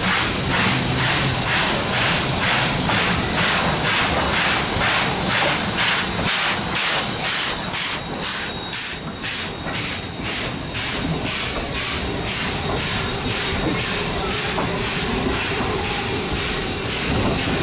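Steam locomotive chuffing in an even rhythm of about two and a half beats a second. The beats fade out about ten seconds in, leaving a steady hiss of steam.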